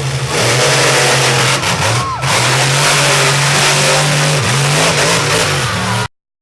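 Monster truck engine running loud and revving, its low note stepping up and down in pitch; the sound cuts off abruptly about six seconds in.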